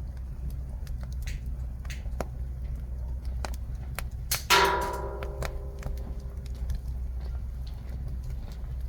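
Jujube-wood fire crackling with scattered sharp pops over a steady low rumble. About four and a half seconds in, a single loud ringing clank, like struck metal, dies away over a second or so.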